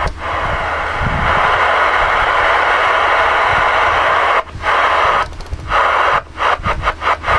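Galaxy DX-979 CB radio receiving open-band static through its speaker, a steady loud hiss with no signal on the channel, cutting out briefly once about halfway through and then several times in quick succession near the end, as the receiver mutes while the channel is changed.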